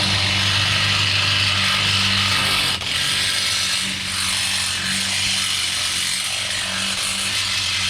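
Electric power drill running steadily under load, boring out a hole to make it bigger so a bolt will fit. A brief dip in the sound comes about three seconds in.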